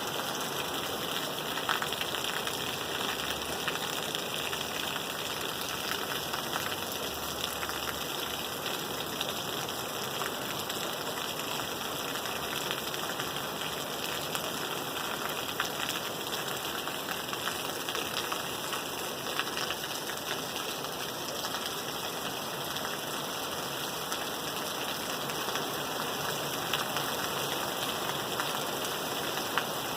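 Steady rain falling on a surface, an even hiss with scattered sharper ticks of individual drops.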